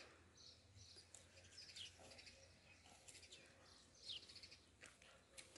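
Faint birdsong: scattered chirps and short falling whistles over quiet outdoor background noise.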